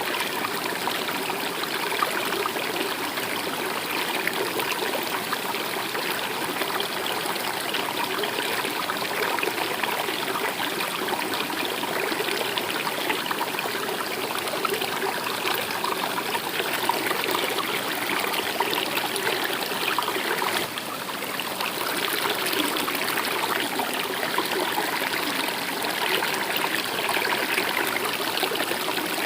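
Steady flowing stream water, a continuous babble and trickle, dipping briefly in loudness about two-thirds of the way through.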